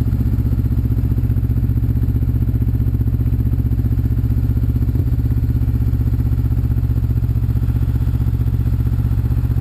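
Motorcycle engine running steadily at an even, unchanging pitch, with a fast regular pulse of its firing.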